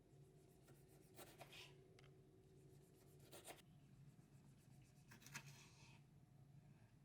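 Near silence: a low room hum with three faint, brief scraping sounds of something being handled, about a second in, around three and a half seconds, and just past five seconds.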